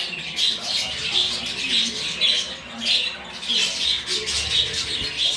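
Budgerigars chattering: a steady run of short, scratchy calls, about two a second.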